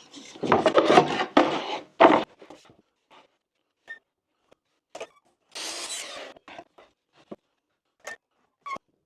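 Workshop handling of wooden boards: about two seconds of rubbing and scraping, then scattered short knocks and clicks, with a brief hiss about six seconds in.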